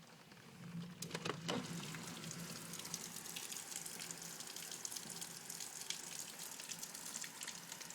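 Heavy thunderstorm rain pelting down, growing louder about a second in to a dense, steady patter of drops.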